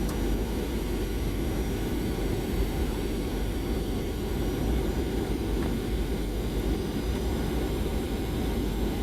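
Airliner cabin noise heard from inside the passenger cabin: a steady, even rumble of the engines and airflow, heaviest in the low end, with no sudden changes.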